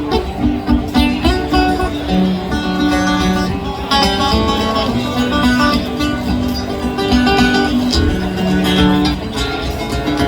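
Live acoustic guitar music: an instrumental passage of picked and strummed acoustic guitars, with no singing.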